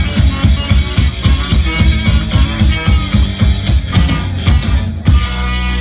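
Live punk rock band playing loud and fast, with rapid drum hits under distorted guitars, closing on a final hit about five seconds in and leaving a sustained guitar chord ringing out as the song ends.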